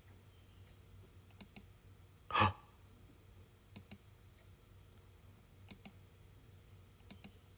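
Pairs of light clicks, each pair a fraction of a second apart, recurring about every one and a half to two seconds from a computer's playback controls, over a faint steady hum. A short breath or sigh about two and a half seconds in.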